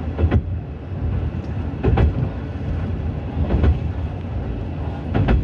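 Diesel railcar running along the track, its steady low rumble broken by clusters of wheel clacks over rail joints about every one and a half seconds.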